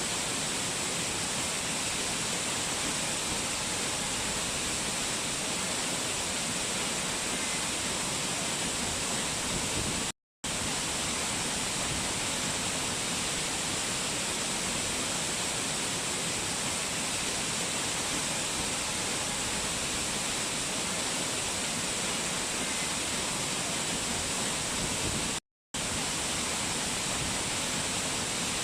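Rushing water of a mountain waterfall, a steady even rush with no change in level. It cuts out to silence briefly twice, about ten seconds in and again a few seconds before the end.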